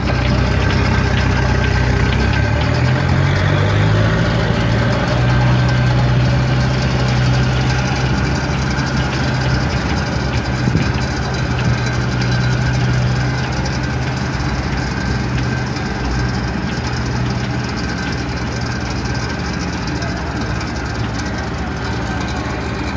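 A large engine running with a steady low drone. A few seconds in, its pitch rises and then holds.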